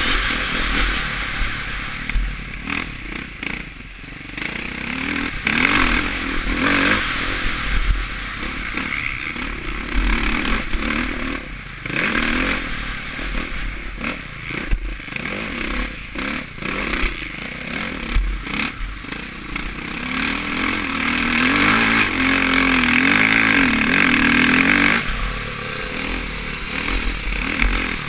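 Suzuki RM-Z450's four-stroke single-cylinder engine revving up and down repeatedly as the motocross bike is ridden, heard from a helmet-mounted camera. A long, rising pull about twenty seconds in cuts off abruptly some five seconds later as the throttle is shut.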